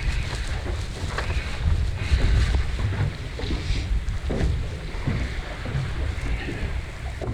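Strong wind buffeting the microphone as a steady low rumble, with water splashing and slapping around a small boat.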